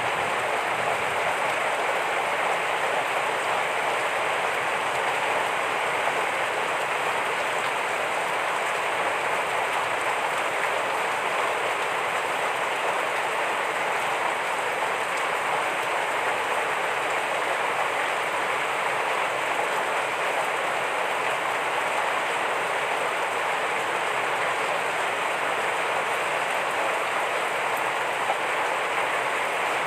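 Steady heavy rain falling, an even hiss of drops with no change in strength.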